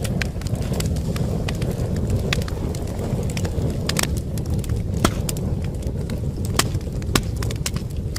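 Wood fire in a fireplace crackling: irregular sharp pops and snaps, several a second at times, over a steady low rumble of burning logs.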